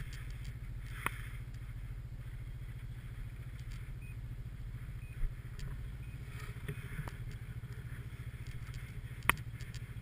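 Snowmobile engine running steadily with a low drone, with a few sharp knocks, the loudest near the end.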